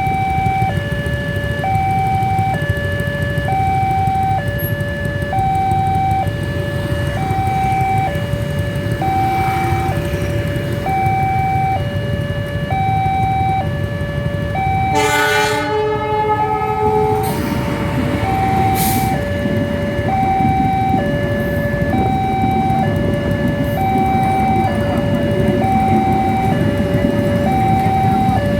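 Two-tone electronic warning alarm of a railway level crossing, switching between a high and a low tone about once a second, over a steady low rumble. About halfway through, a train horn sounds for about two seconds.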